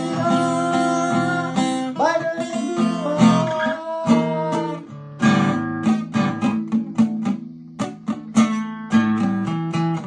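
Acoustic guitar music: strummed chords and plucked notes, with some held notes bending in pitch in the first half.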